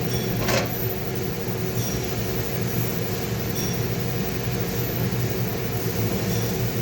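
3D printer running with a steady mechanical hum of motors and fans, with a short click about half a second in.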